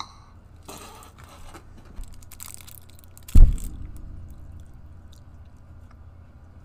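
Close-up chewing and crunching of a candy snack, with a loud, dull thump about three and a half seconds in.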